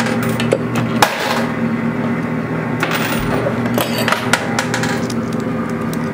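Quarters dropping into a coin pusher arcade machine and clinking against metal and other coins, about a second in and again in clusters around three and four seconds, over the machine's steady hum.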